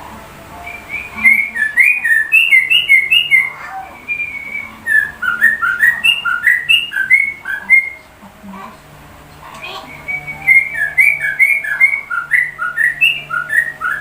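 Yellow-vented bulbul (trucuk) singing runs of quick, clear whistled notes in the manner of a white-rumped shama's song. It sings three bursts, with short pauses between them.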